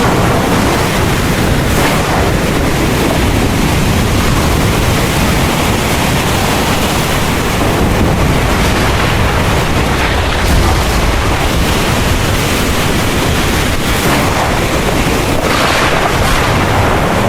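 Heavy rain falling in a steady, dense hiss over a continuous low rumble of thunder, with brief swells of heavier rain about two seconds in and again near the end.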